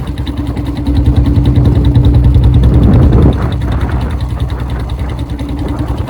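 Royal Enfield Bullet's single-cylinder four-stroke engine with a long-bottle silencer, running steadily in fifth gear at about 35 km/h, at low revs. The sound gets a little quieter about three seconds in.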